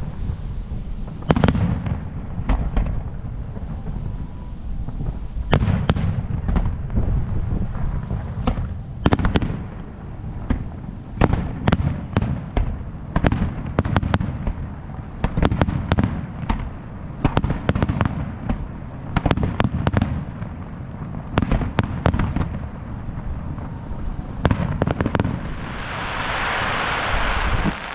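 Aerial fireworks shells bursting in quick succession: many sharp bangs over a constant low rumble, with a hiss lasting about two seconds near the end.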